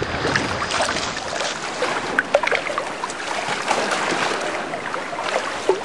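Seawater splashing and lapping close by, in small irregular splashes over a steady wash of water, as someone swims through it.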